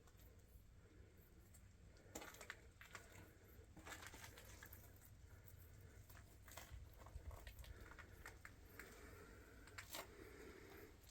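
Near silence, with faint scattered rustles and clicks over a low rumble.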